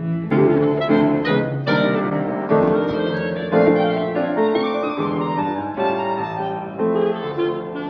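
Classical chamber music with piano to the fore and bowed strings, the piano striking a run of quick notes.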